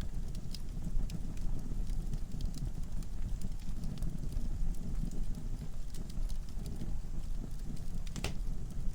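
Wood logs burning in a fireplace: a steady low rumble of flame with frequent irregular crackles and pops, one sharper pop near the end.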